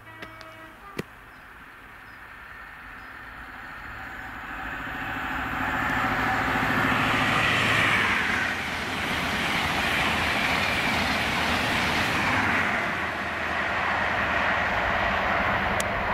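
InterCity 125 high-speed train, a Class 43 diesel power car hauling Mark 3 coaches, passing at speed. The noise builds from a few seconds in and is loudest as the power car goes by, then the coaches rush past with a rhythmic clatter of wheels on the rails.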